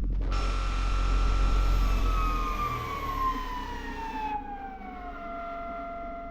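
Electric drive motor of a Teewing Mars XTR RC car whining as it spins, starting suddenly and then falling in pitch in steps as it slows.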